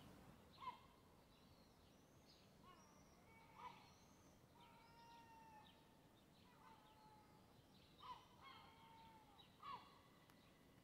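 Faint bird calls: a series of short whistled and sweeping calls, some held briefly on one note, with a few louder calls a couple of seconds apart over a faint outdoor hiss.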